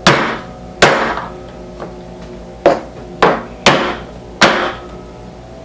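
A hammer knocking a roller-skate bearing into its wheel: six sharp strikes at uneven spacing, each with a short ring, because the bearing is too tight to press in by hand.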